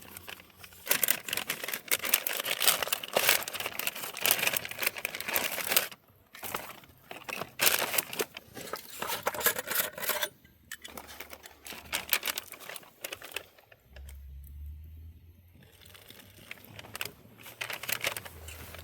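MRE plastic packaging crinkling and tearing as ration pouches are handled and opened. The rustling is dense for the first few seconds, comes in short bursts after that, and dies down to quieter handling near the end.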